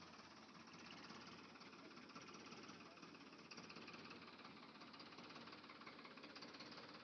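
Faint, steady whir with fast, even ticking from a battery-powered toy vehicle's small motor and gearbox running.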